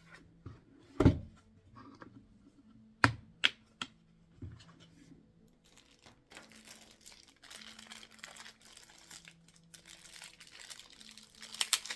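Hands handling a plastic toy and its packaging: a thump about a second in, a few sharp clicks, then steady crinkling of plastic wrapping through the second half, getting louder near the end.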